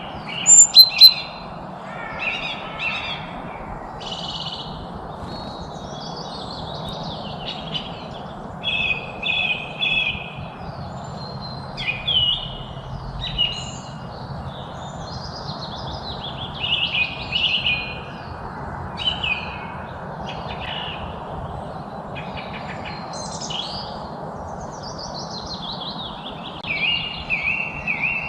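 Several songbirds chirping and singing in short phrases and trills, with the loudest cluster of calls about a second in. Underneath runs a steady background hiss.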